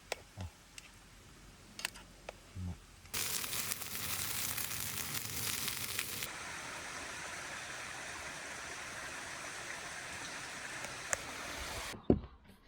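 A few faint clicks, then a small stream running: a steady rush of water that comes in suddenly about three seconds in, louder for a few seconds before settling to a steadier level, and cuts off near the end.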